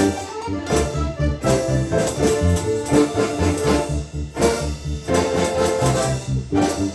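Russian folk-instrument orchestra playing a lively piece with a steady, driving beat in the bass.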